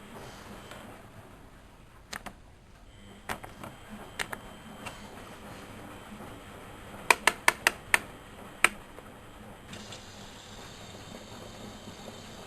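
Miele Novotronic W120 washing machine giving a series of sharp clicks over a steady low hum, with a quick run of five clicks about seven seconds in and a last one a moment later.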